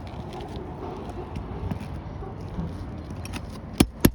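Two sharp hammer taps on a roofing nail near the end, with low wind and handling noise before them, as the nail is worked loose from an asphalt shingle.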